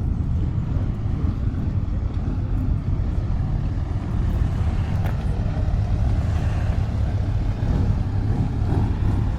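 Steady low rumble of a motor vehicle running, with a faint hiss above it and no clear break or change.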